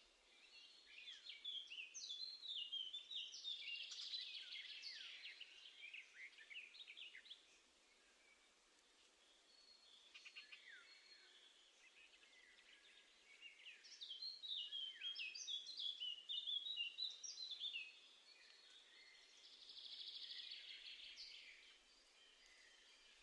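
Small garden birds singing, in three bouts of quick high chirps and trills with quieter stretches between.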